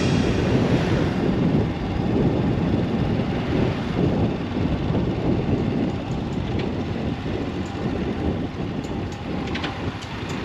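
Motorcycle under way: a steady low engine and road rumble mixed with wind noise, with a few faint clicks near the end.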